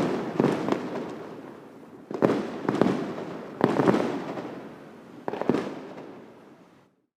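Fireworks shells bursting: a series of sharp bangs every second or two, each trailing off in a fading rumble. The sound drops out abruptly just before the end.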